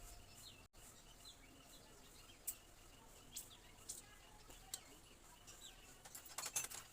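Faint birds chirping in short calls, with a few sharp clicks and a quick run of clicks near the end.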